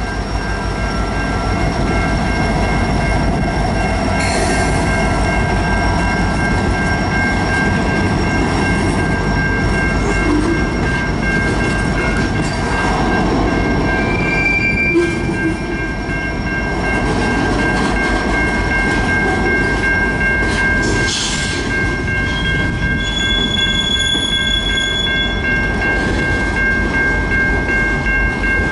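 A train rolling past with a steady rumble. Several high, steady squeals from steel wheels on the rails ride over it, with a few shorter squeals partway through and near the end.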